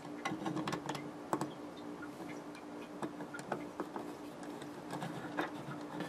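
Irregular light clicks and taps of small wiring parts being handled, over a steady low hum.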